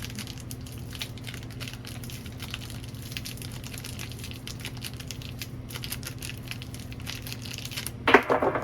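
Plastic wrapper crinkling as a washer-cleaner tablet is worked out of it by hand, over a steady low hum. A louder sound comes near the end.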